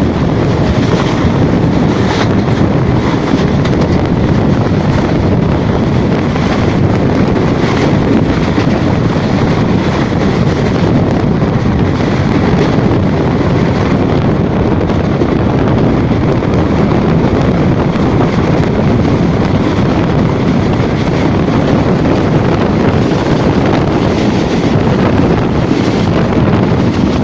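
Steady rushing rumble of a moving train, with wind buffeting the microphone.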